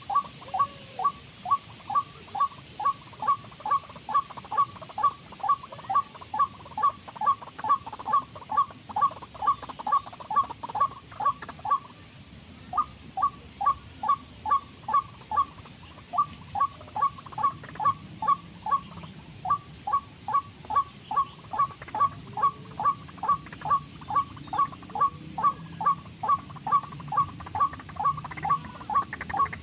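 Bird lure call played on a loop for trapping: a short fowl-like call repeated evenly about twice a second, with a brief break about twelve seconds in.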